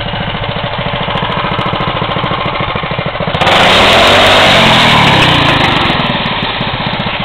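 A mini bike's 26 cc Homelite weed-whacker two-stroke engine idling with a fast, even putter. About three and a half seconds in it is revved hard for a couple of seconds, then falls back to idle.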